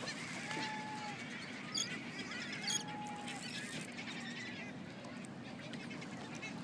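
Two faint, honking calls from California sea lions a couple of seconds apart, each held under a second. A couple of light water splashes come in between, over a steady hiss of water and wind.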